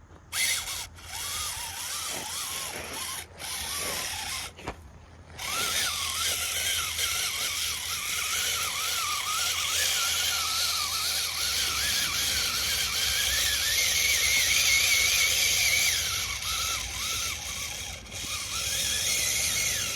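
Small electric motor whining, its pitch wavering up and down as if under changing load. It cuts out briefly a few times in the first five seconds, then runs on steadily.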